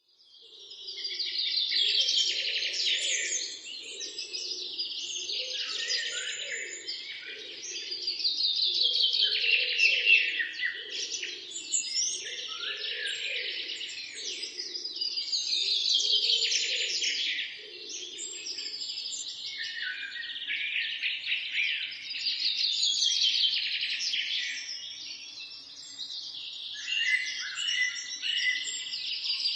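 A dense chorus of birds chirping and singing, many calls overlapping and swelling then easing off every few seconds. A fainter, lower pulsing sound runs underneath for roughly the first eighteen seconds.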